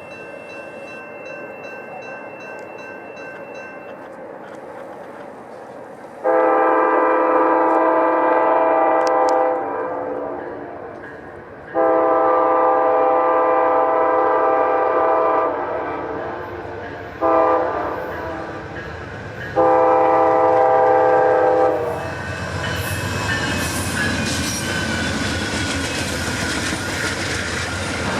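Grade-crossing bell ringing, then the approaching Amtrak Auto Train's locomotive horn sounds the standard crossing signal: two long blasts, a short one and a final long one. The train then arrives and passes, its wheels clicking over the rail joints.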